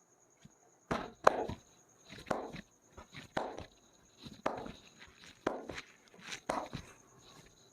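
Percussive massage slaps: hands striking the body in a steady rhythm of about one strike a second, seven strikes in all, beginning about a second in.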